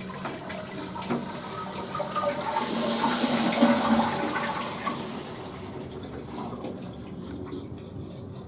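Western-style toilet flushing: water rushes into the bowl, loudest about three to four seconds in, then dies away.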